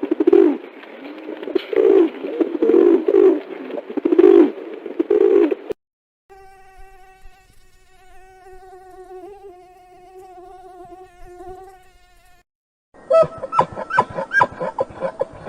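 Three short animal-sound clips in a row: a rough, pulsing buzz, then a steady, slightly wavering buzzing whine for about six seconds, then a fast run of clicks near the end.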